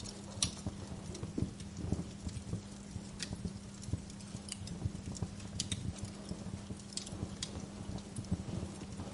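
Wood fire crackling: irregular sharp pops and snaps over a low, rough rumble, with a steady low hum underneath.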